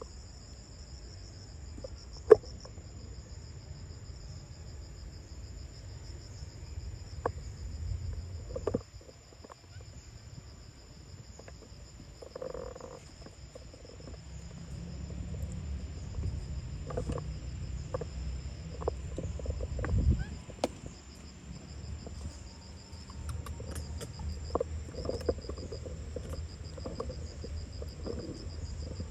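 Insects trilling steadily, a high-pitched pulsing chorus, with scattered small clicks and knocks and a low rumble. One sharp knock about two seconds in is the loudest sound.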